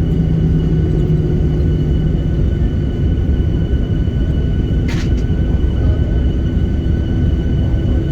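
Boeing 737-800 on its landing rollout, heard inside the cabin: a steady low rumble of engines and wheels on the runway. A low hum fades out in the first two seconds, and there is a short click about five seconds in.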